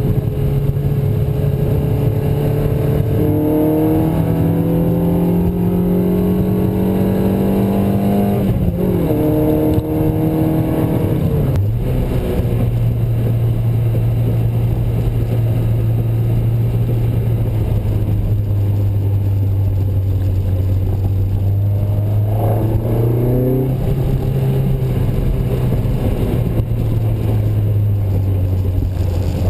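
Matra Murena 2.2's mid-mounted 2.2-litre four-cylinder engine, fitted with a Piper 3777 camshaft, pulling under acceleration with its pitch climbing. There are gear changes about eight and twelve seconds in, followed by a long spell of steady cruising. About twenty-three seconds in the revs rise briefly, then settle slightly lower.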